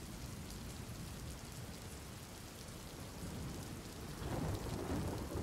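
Steady rain falling, with a low rumble of thunder building up about four seconds in.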